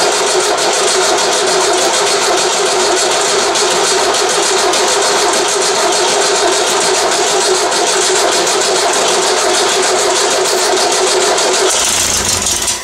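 VW 1600 dual-port flat-four turning over on its starter for about twelve seconds without catching, then stopping abruptly near the end. It is not getting fuel yet: the carburettor float bowl has not filled.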